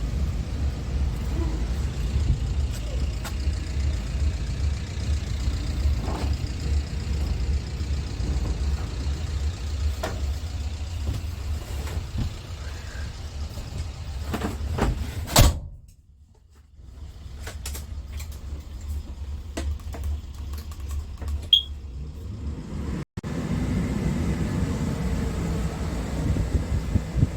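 Scania P280's nine-litre five-cylinder diesel engine idling with a steady low rumble. About fifteen seconds in there is a sharp knock and the sound almost drops away for a second or two before the idle returns, and it comes back louder near the end.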